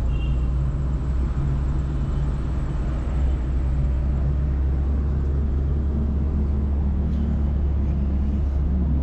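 A moving car's engine and road rumble: a steady, heavy low drone, with a faint engine hum coming through in the second half.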